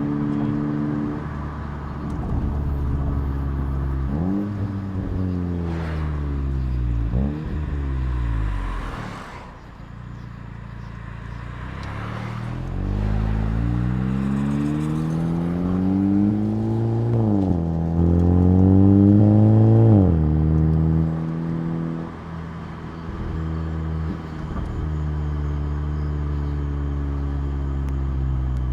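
Exhaust of a 2019 Volkswagen Jetta GLI's turbocharged 2.0-litre four-cylinder, heard through a Neuspeed stainless steel cat-back. It starts steady, revs rise and fall a few times, then about halfway it accelerates with the pitch climbing, drops sharply twice as the gears change, and settles back to a steady cruise.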